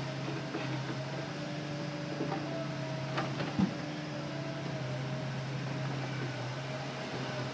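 Hitachi Zaxis excavator running steadily with a low engine hum and a thinner hydraulic whine that shifts in pitch and comes and goes. A couple of short knocks come about three and a half seconds in.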